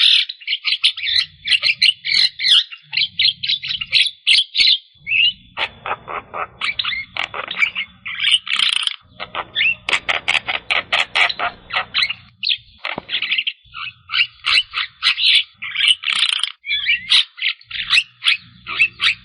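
Javan myna (jalak kebo) singing a busy song of harsh chattering notes and short whistles, with runs of rapidly repeated notes.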